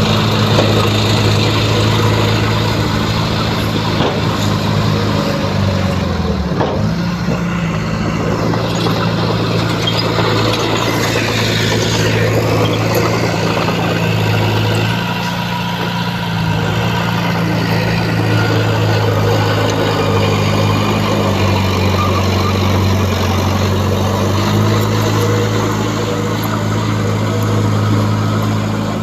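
Heavy diesel earthmoving machinery running steadily under load, its engine note stepping up and down in pitch several times as the machine works.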